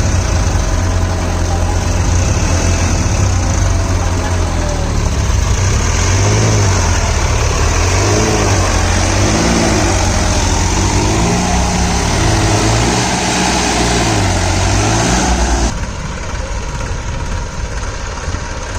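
Massey Ferguson 7250 tractor diesel engines running hard under load, the pitch repeatedly rising and falling as the throttle is worked while pulling a bogged tractor out of mud. The sound drops suddenly to a quieter engine sound near the end.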